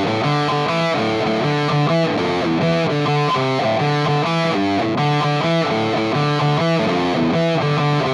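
Distorted electric guitar playing a steady run of picked chords, changing chord every few beats.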